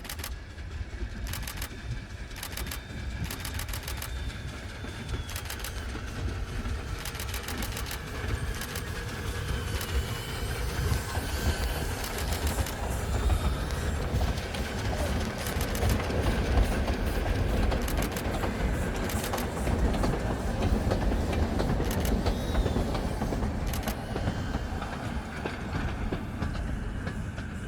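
Train rolling past, its wheels clicking in groups over the rail joints. A steady low rumble grows louder toward the middle and eases slightly near the end.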